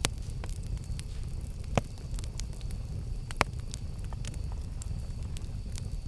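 Campfire crackling: irregular sharp pops and snaps, the loudest near the start and about two and three and a half seconds in, over a low steady rumble.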